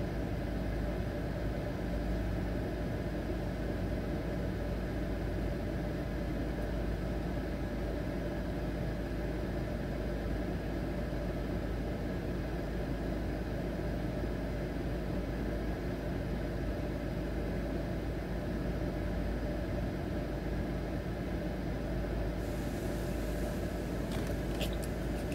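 A car engine idling, a steady low rumble, with a few faint clicks near the end.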